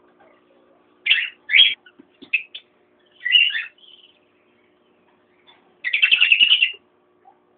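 Cockatiels calling: a few short, harsh chirps, then a longer, rapidly pulsed call about six seconds in.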